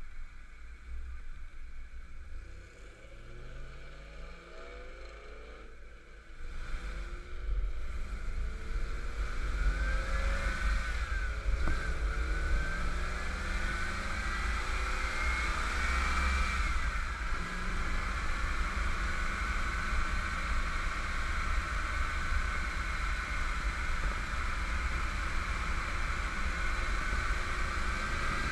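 1991 Camaro Z28 1LE's 305 TPI V8 idling quietly, then, about six seconds in, revving up as the car pulls away and accelerating through the gears of its T5 five-speed manual, the pitch climbing and dropping at each shift. It then runs at speed over a steady low rumble.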